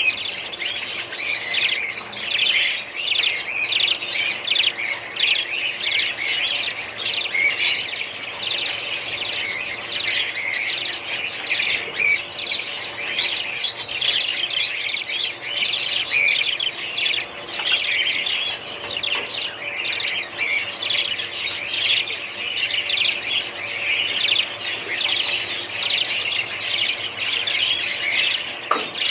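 A flock of budgerigars chattering without a break, many rapid high chirps overlapping.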